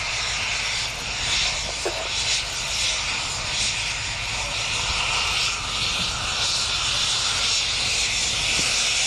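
Embraer Phenom 100E light jet passing close by on its arrival, its twin Pratt & Whitney Canada PW617F1-E turbofans making a steady, high-pitched rushing jet noise.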